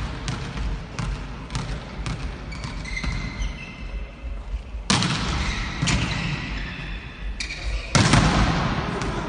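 Volleyballs struck and bouncing on a hard court during volleyball practice: a string of sharp smacks and thuds, with short high squeaks and louder stretches about five and eight seconds in.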